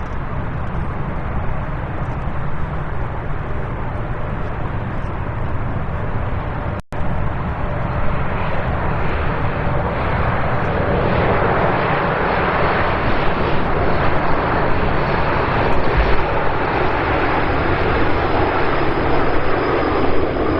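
Boeing 787 Dreamliner's jet engines, a steady rush that grows louder from about halfway through as the aircraft draws nearer. The sound breaks off for an instant about a third of the way in.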